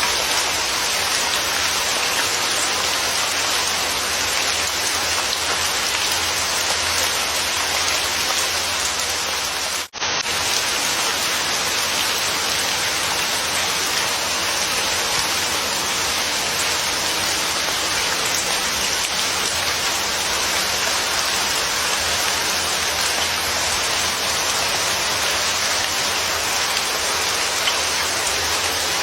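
Steady, even rainfall. It cuts out for an instant about ten seconds in, then carries on unchanged.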